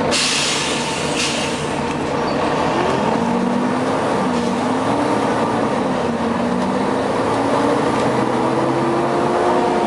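Volvo B9TL double-decker bus running, heard on board. A burst of air hiss opens and fades within the first second and a half. Then comes a steady mechanical drone with pitched tones that rise and fall.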